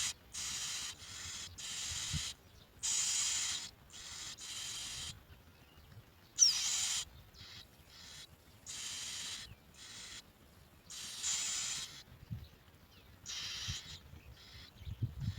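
Bar-winged prinias at the nest giving harsh, raspy calls in short bursts, one after another with brief gaps, about fifteen times.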